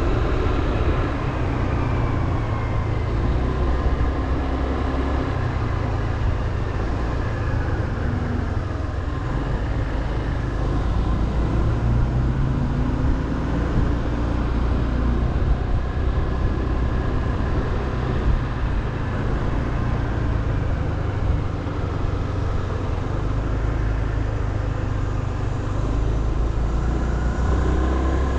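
Motorbike engine running while riding, with wind and road noise; the engine note shifts up and down a few times as the speed changes.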